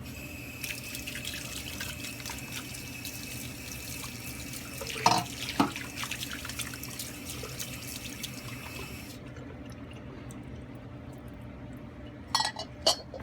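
Parts washer running: its pump hums steadily while solvent splashes from the nozzle over metal drill press pulleys being scrubbed in the basin. Two knocks of metal about five seconds in. The splashing stops about nine seconds in, and two sharp clinks follow near the end.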